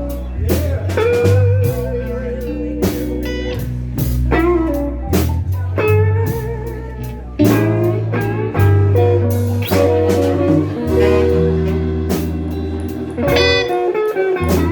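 Live blues band playing an instrumental passage: a guitar lead with wavering, sustained notes over a bass line and steady drum hits.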